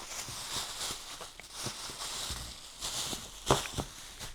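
Faint handling noises: light rustling with a few soft clicks and taps, the two clearest about three and a half seconds in.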